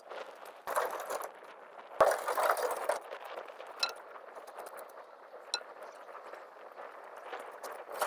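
Two short bouts of scraping, with a sharp knock at the start of the second, then two light, ringing metallic clinks a second and a half apart.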